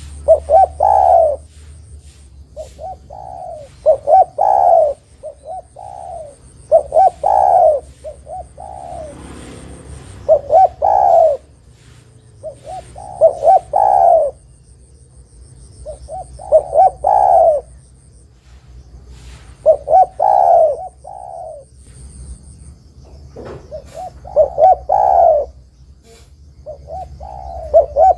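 Spotted dove (derkuku, tekukur) cooing over and over: a short phrase of several coos about every three seconds.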